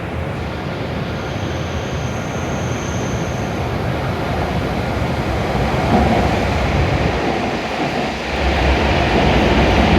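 W7 series Shinkansen train pulling into the platform, its running noise a steady rush that grows louder as it comes in.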